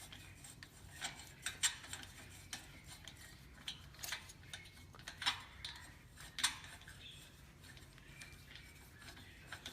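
Faint, irregular metallic clicks and taps of a screw being turned and tightened to fix a piece onto a moped's exhaust muffler, about a dozen sharp ticks spaced unevenly.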